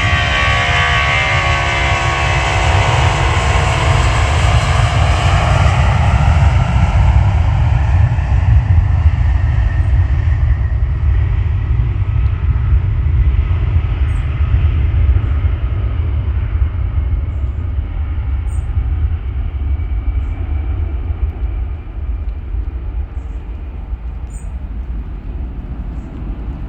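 Jet airliner's engines on a departure, a whine falling in pitch over the first few seconds as it passes and climbs away, then a low rumble that slowly fades.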